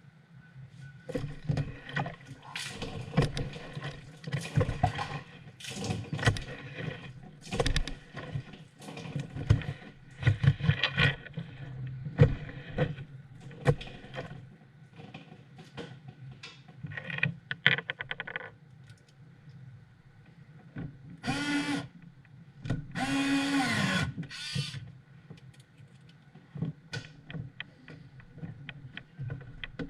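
Irregular knocks, clicks and scraping from hands and tools working on a disassembled refrigerator's parts, with two short whirring bursts a little over twenty seconds in.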